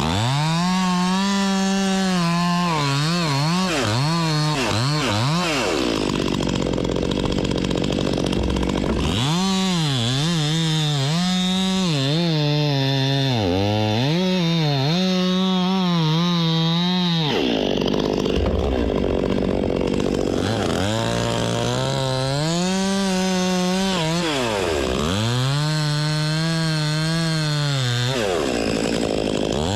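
Husqvarna 261 two-stroke gas chainsaw cutting wood at full throttle in three long runs. Its pitch repeatedly dips as the chain bogs in the cut and then climbs back. The saw drops to idle for a few seconds between runs.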